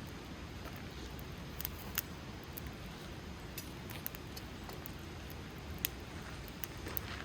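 Wood fire crackling: scattered sharp pops and snaps over the steady low rumble of burning flames, with the loudest pops about two seconds in and just before six seconds.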